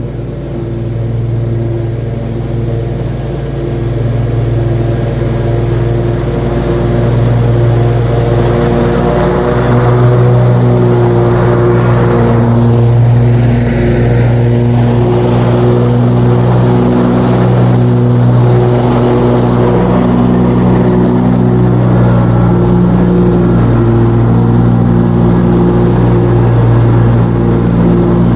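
Riding lawn mower engine running steadily under load while mowing, with small shifts in pitch; it grows louder over the first several seconds, then holds.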